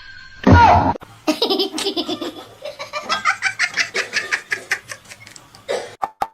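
Laughter in a long run of quick, repeated bursts, after a short loud vocal sound about half a second in.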